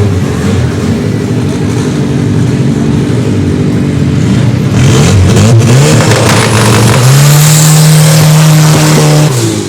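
Drag-racing car launching and accelerating hard down the strip, its engine note climbing in stages as it revs through the gears. It is loudest and steadiest in the last couple of seconds, then falls off sharply near the end.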